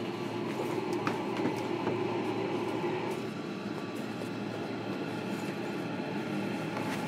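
Inside a JR Kyushu 305 series electric train in motion, recorded in a motor car: steady wheel-and-rail rumble with the traction motors humming under the floor. The motor hum fades about three seconds in.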